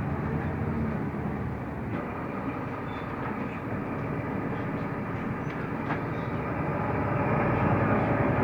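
Interior of a Mercedes-Benz Türk O345 Conecto LF low-floor city bus on the move: steady engine and road noise with a low hum, getting somewhat louder near the end, with a couple of faint clicks.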